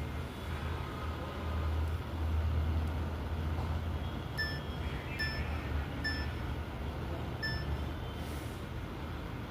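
Washing machine control panel beeping four times at uneven intervals in the second half, short high electronic beeps over a steady low hum.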